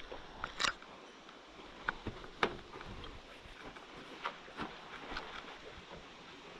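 Faint handling noises: scattered light clicks and taps, a few seconds apart, over a low hiss.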